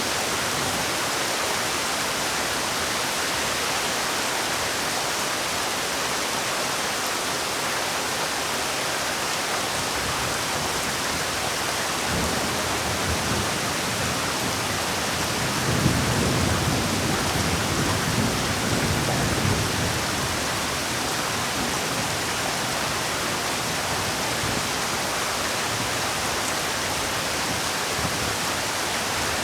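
Heavy rain falling steadily, a dense even hiss. A low rumble swells about halfway through and fades again.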